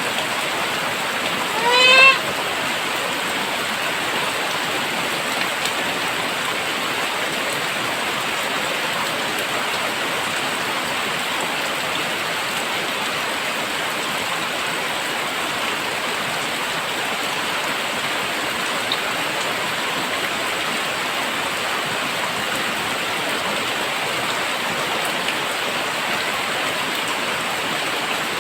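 Very heavy rain pouring steadily. About two seconds in, a short rising call with a clear pitch sounds over it.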